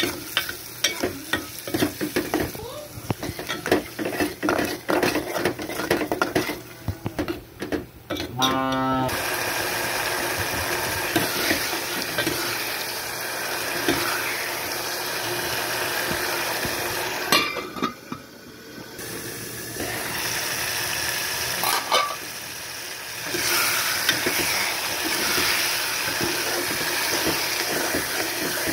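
Metal spoon stirring and scraping around an aluminium pot of liver and onions frying in spiced gravy, with many quick clicks and scrapes in the first several seconds. After that the food sizzles steadily, with the occasional stir.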